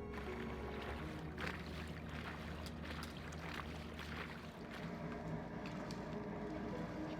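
Water sloshing and splashing along a moving boat's hull in irregular small splashes, over a steady low hum. Music comes back in near the end.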